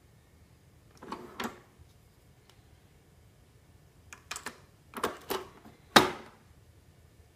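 Sharp plastic clicks and clacks of a De'Longhi Lattissima Nespresso capsule machine being handled. There are two a second in, a quick run of them between four and five and a half seconds in, and the loudest single clack about six seconds in.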